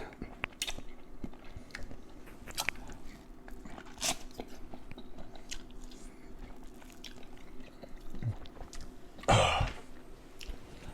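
A person chewing and biting food close to the microphone, with wet smacking clicks throughout. A louder, brief rushing sound comes about nine seconds in.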